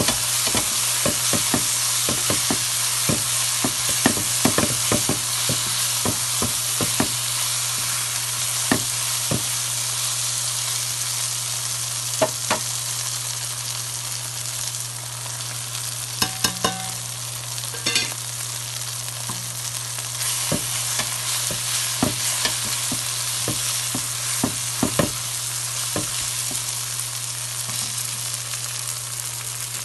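Onion-tomato masala sizzling in oil in a metal pan while a wooden spatula stirs and scrapes it, knocking against the pan many times in the first several seconds and less often later.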